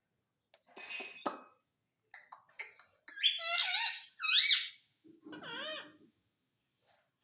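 Pet parrot calling: a few short groups of high squawks and squeaks with arching, rising-and-falling pitch, loudest about halfway through.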